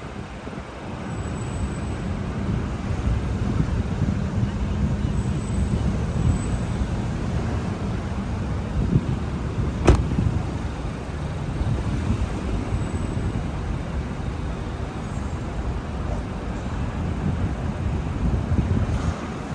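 Steady low rumble of road vehicle noise, with one sharp click about ten seconds in.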